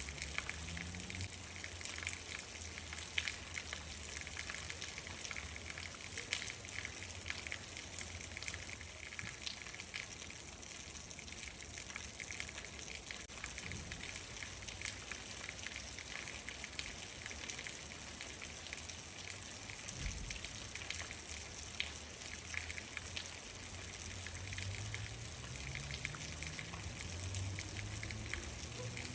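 Rain falling steadily, with many separate drop hits ticking through the hiss. A low hum rises in pitch near the end.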